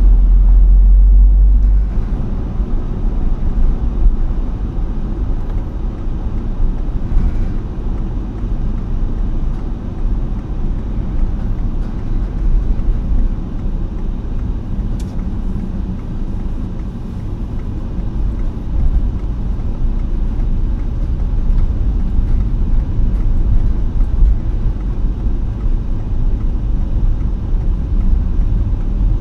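A continuous low rumble with a rushing noise that rises and falls in loudness.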